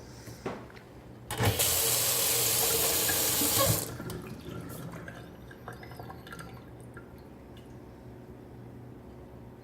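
Price Pfister Ashfield single-handle faucet turned on, water running into the sink for about two and a half seconds, then shut off. Trickling and dripping die away afterwards.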